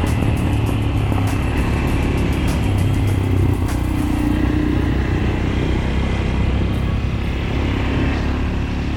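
Fuego Tekken 250 cc enduro motorcycle engine running steadily under way, its pitch rising and falling slightly with the throttle. Light clicks and knocks sound over it in the first few seconds.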